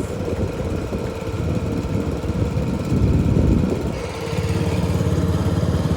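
Lawnmower engine fitted as a boat's outboard motor, running steadily. About four seconds in, its sound settles into a more even, regular beat.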